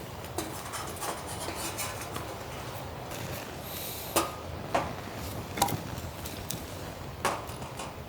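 Steady hiss of rain with five or so sharp clinks and knocks, the loudest about halfway through and near the end, as from dishes or utensils being handled.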